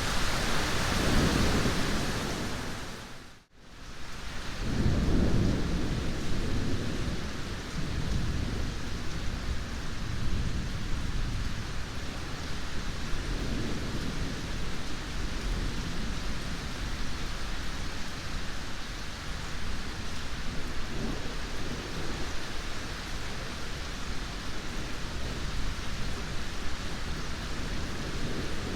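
Steady heavy rain with low thunder rumbling in and out several times. About three and a half seconds in, the whole sound fades briefly to near silence and then swells back.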